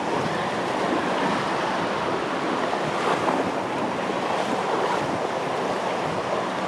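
Sea surf washing onto a sandy beach: a steady rush of breaking waves that swells slightly about three seconds in.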